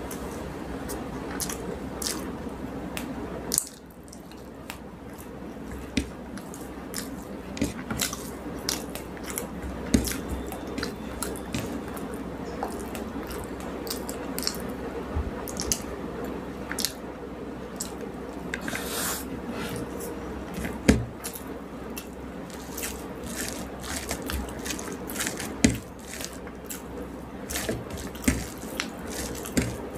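Close-up eating sounds: rice and fish curry being mixed by hand and chewed, giving irregular wet squishes and clicks.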